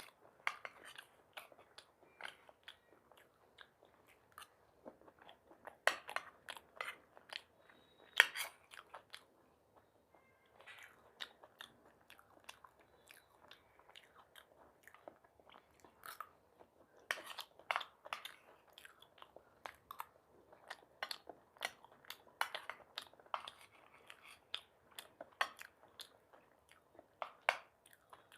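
A person chewing and biting food, with irregular crunches and wet mouth clicks; the sharpest crunches come about six and eight seconds in and again around seventeen seconds in.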